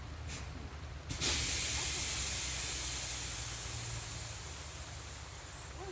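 A brief faint hiss, then a sudden loud hiss about a second in that fades slowly over the next few seconds.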